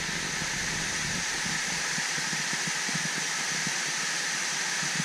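Waterfall rushing: a steady, even hiss of falling water, with faint low knocks scattered through it.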